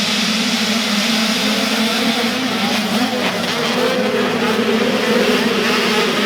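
Small dirt bike engines running hard on a motocross track: a continuous high buzz whose pitch wavers up and down as the riders work the throttle.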